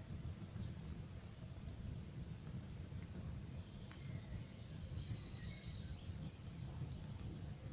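Campfire burning with a low rumble and occasional faint crackles, while a songbird repeats a short high chirp about once a second and gives a buzzy trill about halfway through.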